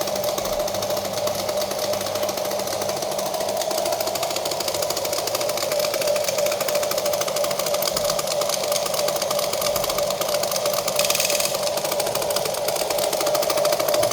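Huina radio-controlled toy excavator's small electric motors and gearbox running with a steady whine and a fast, even rattle, with a brief higher hiss about eleven seconds in.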